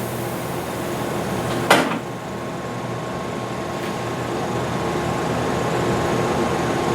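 Air-powered landing gear of a Cessna U-3B cycling on tank air: a sharp click about two seconds in, then a steady hiss that slowly grows louder as the gear moves slowly toward up and locked.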